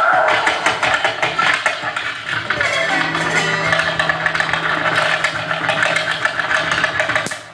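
Live experimental noise music: a dense, scratchy clattering texture, joined about three seconds in by a steady low hum, then dropping away sharply near the end.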